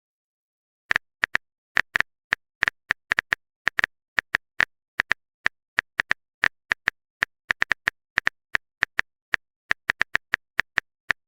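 Typing sound effect: short sharp keyboard clicks at an uneven pace of about four a second, starting about a second in, with dead silence between them, as a message is being typed out.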